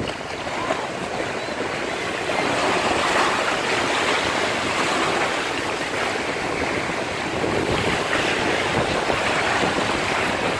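Sea waves breaking and washing on a beach, with wind on the microphone.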